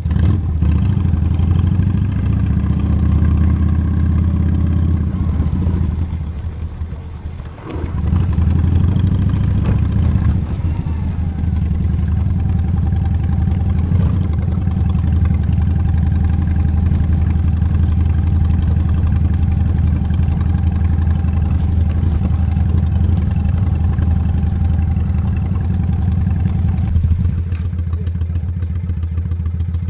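Honda Steed V-twin motorcycle running under way. Its sound dips for a moment about six seconds in, then resumes steadily.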